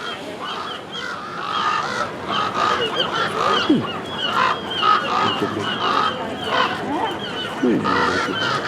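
Many seagulls calling at once: short, repeated, overlapping squawks and cries.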